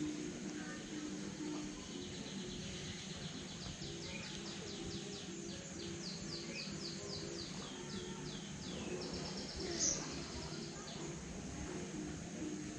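A songbird singing a long series of quick, high, downward-slurred notes over steady outdoor background hiss, with a brief sharp sound near the end of the song.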